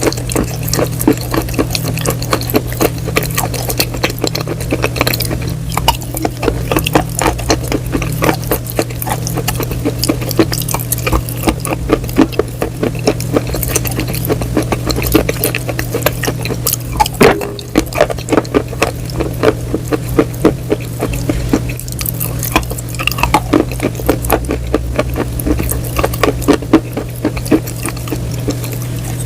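Close-miked crunchy chewing: a dense, irregular run of crisp crunches and crackles, over a steady low hum.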